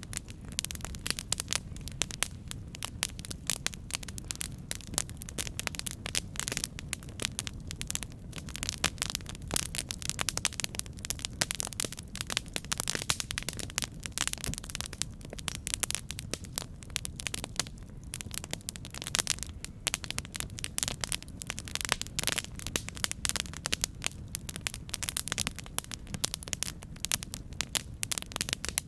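Campfire crackling: many quick snaps and pops of burning wood, continuous and irregular, over a steady low rumble.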